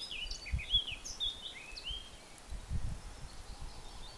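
Small songbirds chirping, a string of short notes that rise and fall, with occasional low rumbles of wind on the microphone.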